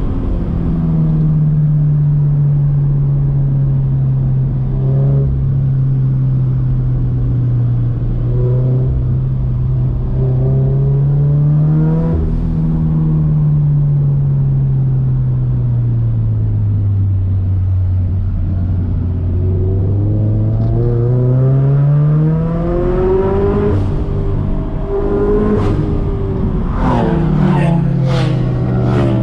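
Turbocharged Scion FR-S's 2.0-litre flat-four engine pulling and easing off, its pitch rising and falling with the revs: up briefly about twelve seconds in, down low a few seconds later, then climbing again. A run of short sharp cracks comes in the last few seconds.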